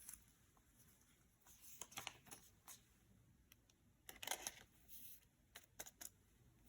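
Faint rustling and light taps of Yu-Gi-Oh trading cards and their packaging being handled, in short scattered bursts, the loudest about four seconds in.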